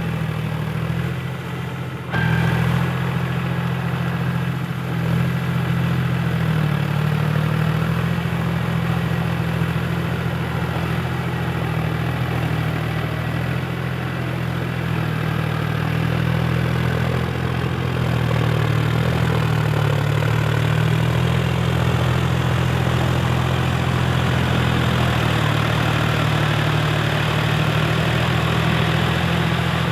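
A Powertrac 4WD tractor's diesel engine runs steadily while puddling in deep mud. There is a sudden jump in level about two seconds in.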